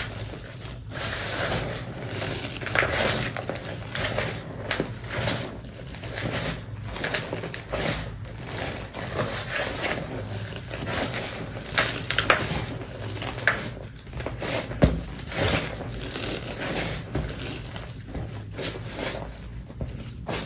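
Reformed gym chalk being crushed and crumbled by hand, an irregular run of crunching and crackling with many small sharp cracks.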